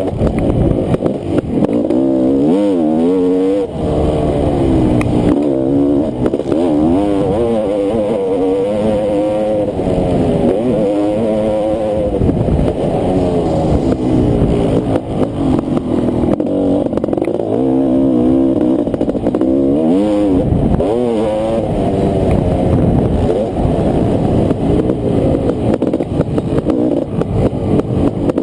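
Honda CR500 two-stroke single-cylinder engine ridden hard on a motocross track, its pitch rising on the throttle and falling off again many times over.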